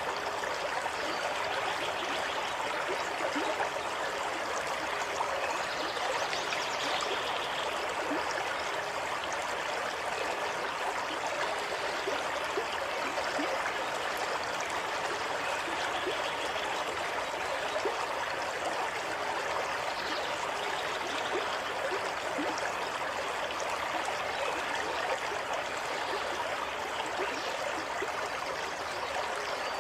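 Stream of running water flowing and babbling steadily.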